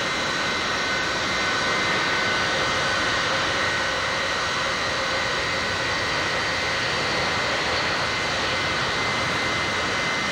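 Jet engines of a B-52 bomber running steadily: a dense, even roar with a high, steady whine over it.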